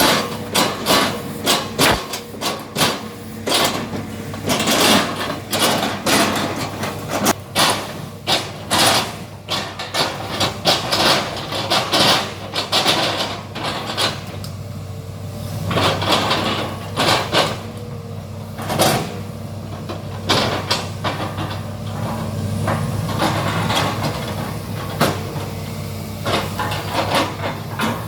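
Excavator diesel engine running steadily while the machine's bucket chops up oil palm trunks. A dense run of knocks and cracks fills the first half, thinning to occasional knocks in the second half.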